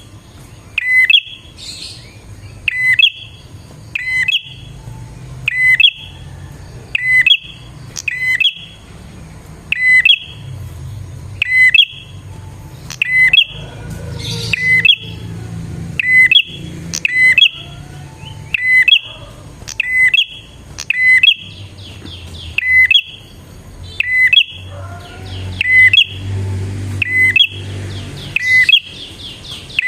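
Prinia (prenjak) calling: a short, sharp chirp repeated very evenly about once a second, with a faster run of chattering notes between the chirps near the end.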